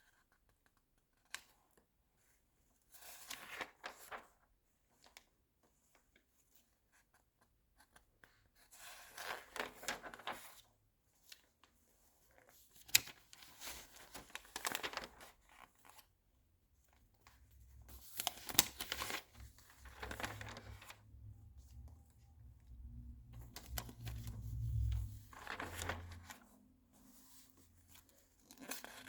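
Magazine pages turned one at a time: about six brief papery swishes and crinkles with pauses between, two of them with a sharp click.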